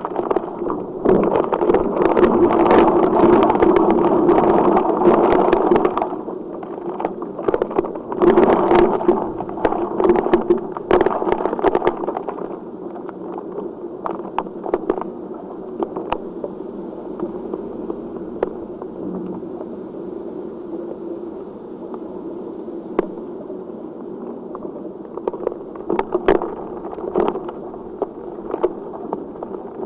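Heavy rain falling steadily, a dense hiss of rain with scattered sharp taps of drops hitting nearby surfaces. It comes in louder surges through the first half, then eases to a steadier, softer downpour.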